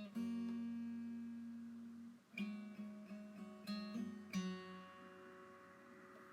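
Background acoustic guitar music: a few strummed chords, the last one about four and a half seconds in left ringing and fading out.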